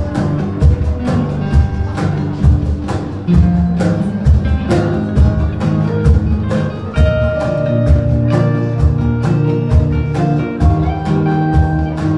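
A band playing an instrumental passage with no singing: guitar and sustained notes over a steady drum beat.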